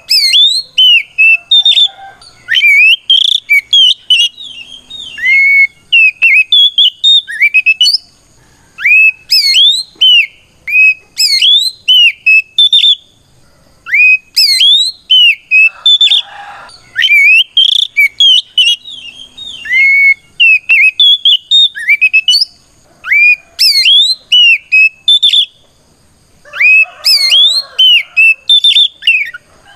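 Oriental magpie-robin (kacer) singing its loud fighting song: rapid phrases of clear, upward-sweeping whistled notes broken by short pauses. It is a challenge song calling out a rival.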